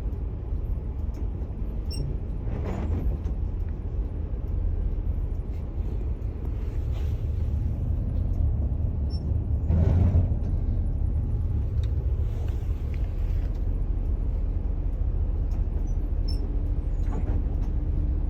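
Steady low vehicle rumble, with brief louder swells about three seconds in and about ten seconds in.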